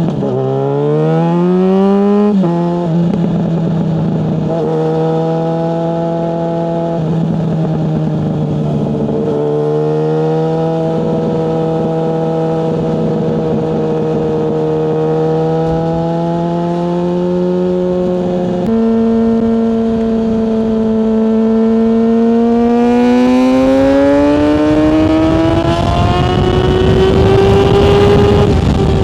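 Yamaha FZ6S 600cc inline-four motorcycle engine under way: it revs up, drops sharply at a gear change, then runs steady at cruising revs. About two-thirds through the pitch shifts again, and near the end the engine accelerates with a steady rising pitch as wind noise grows.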